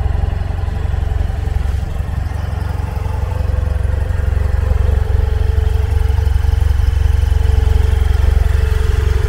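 BMW F 800 ST's parallel-twin engine idling steadily.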